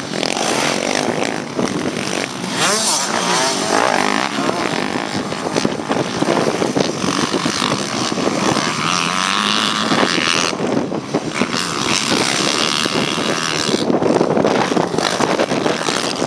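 Motocross bike engines racing, revving up and falling back again and again as the bikes accelerate, shift and back off around the track.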